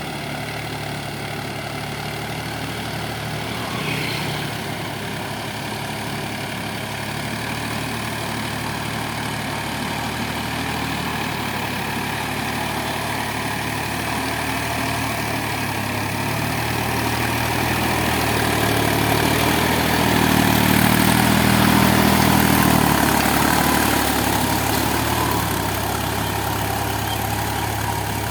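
Massey Ferguson Dynatrack 254 DI tractor's diesel engine running steadily, growing louder for a few seconds about twenty seconds in and then easing back.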